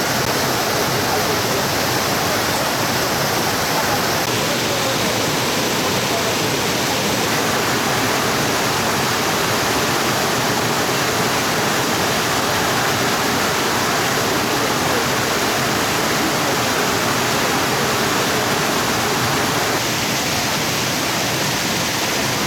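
Rushing water of a mountain valley stream, a steady, loud, even wash of noise.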